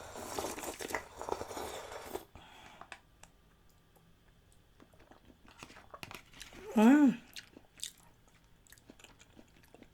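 Slurping of spicy chicken-feet broth for about two seconds, followed by faint chewing clicks. A short hummed 'mm' comes about seven seconds in.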